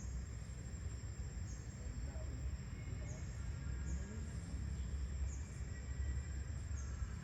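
Insects droning with one steady high whine, and a short chirp repeating about every second, over a low rumble.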